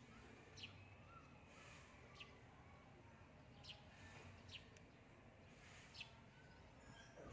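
A small bird chirping faintly, about five short, high, slightly falling chirps a second or two apart, over a quiet steady background.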